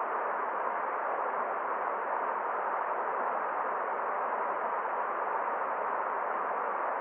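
Forest stream running steadily: an even, unbroken hiss of water with no separate splashes or changes.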